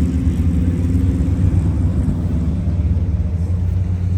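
Vehicle engine running steadily close by: a loud, deep, even rumble with no revving.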